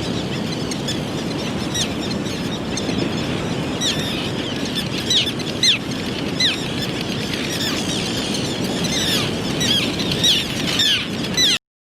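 Small birds chirping: short, high, downward-sliding chirps that start a few seconds in and come more often toward the end, over a steady outdoor background hiss. The sound cuts off abruptly near the end.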